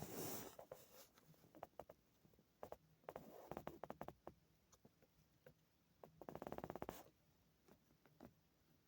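Faint scattered clicks and scratching sounds, with a quick rattling run of clicks lasting about a second, about six seconds in.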